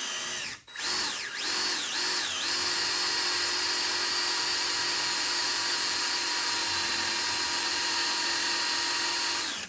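Cordless drill motor spinning up in a few short trigger pulls, then running steadily for about seven seconds before stopping suddenly, drilling into a seized brake disc retaining bolt.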